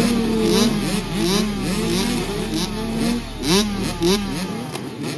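Several two-stroke 65cc motocross bikes racing, their engines revving up again and again in quick rising sweeps as the riders run through the gears.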